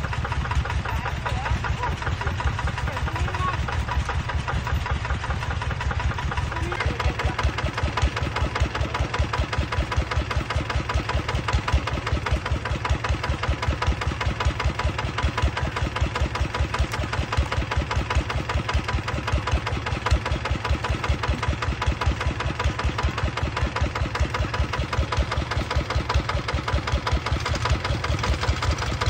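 Yanmar 150 single-cylinder diesel engine running steadily at idle, an even, rapid thudding with no change in speed.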